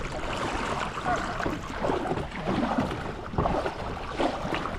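Water splashing and sloshing against a fishing kayak's hull, an irregular run of short splashes.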